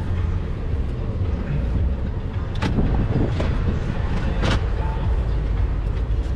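Road and engine rumble of a moving car, heard from inside the cabin, steady and low, with two short knocks about a third and two thirds of the way through.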